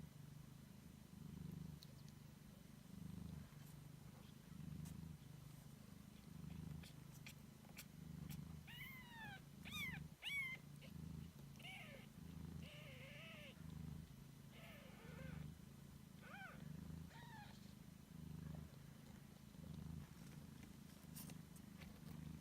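Nursing cats purring softly in a steady rhythm, swelling and fading with each breath, while four-day-old kittens let out a run of thin, high squeaky mews around the middle.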